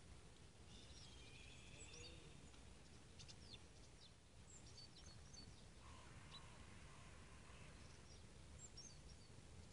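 Faint birds chirping: scattered short high calls over a low, steady background rumble.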